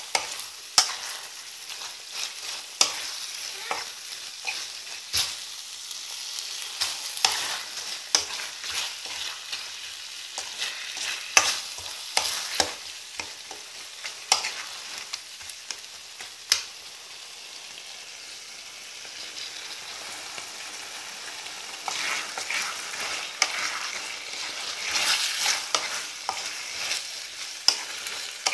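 Chicken in a thick sauce sizzling in a steel karahi while a metal spoon stirs it, clinking and scraping against the pan at irregular moments. About two-thirds of the way through there is a calmer stretch of steady sizzling with few clinks.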